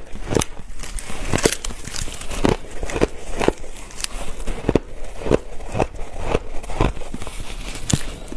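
Ice being bitten and chewed close to the microphone, a crunch about every half second.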